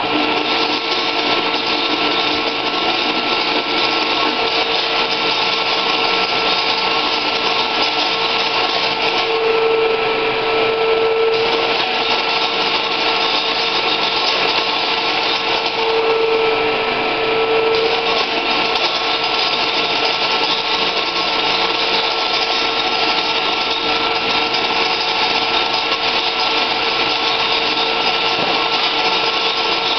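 Motor-driven rim-curling machine for sheet metal running steadily with a constant hum. It starts abruptly, and its tone strengthens briefly twice, around ten and seventeen seconds in.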